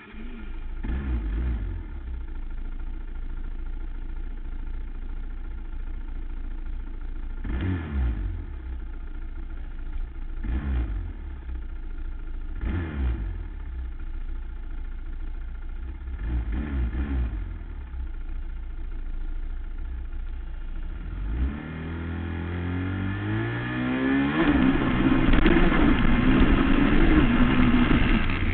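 Racing quad engines idle with about five quick throttle blips that fall back each time. From about 21 seconds in they rev up hard and climb in pitch in steps, growing loudest near the end, as the quads accelerate away from the start.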